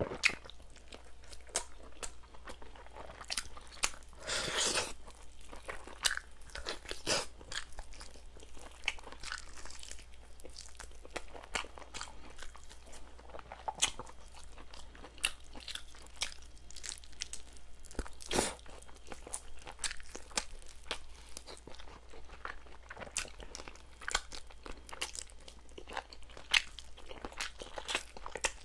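Close-miked eating sounds: chicken being bitten and chewed, with many sharp, irregular crunches.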